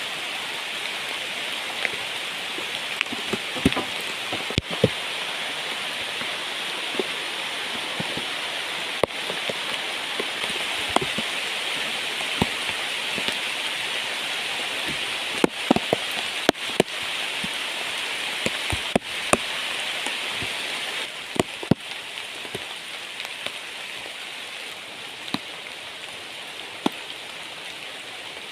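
Heavy rain falling steadily, with frequent irregular sharp taps of large drops landing close by. It eases slightly about three quarters of the way through.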